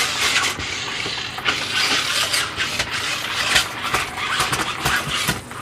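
Toy RC stunt truck driving, its small electric motors and plastic gearbox whirring, with irregular clattering and rattling throughout.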